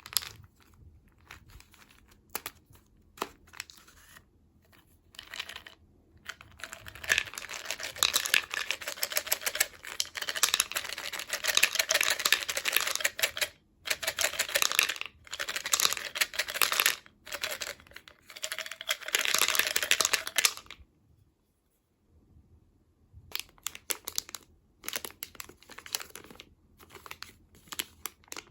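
Snack packaging being crinkled and torn open by hand. A few light rustles and clicks come first, then a long stretch of dense crinkling, a short pause, and more intermittent crinkling near the end.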